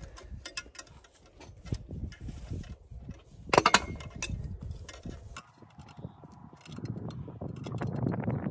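Hand tool clicking and scraping on metal while tightening a wire terminal nut on a tractor alternator, with one louder clank about three and a half seconds in. The sound grows rougher and busier in the last few seconds.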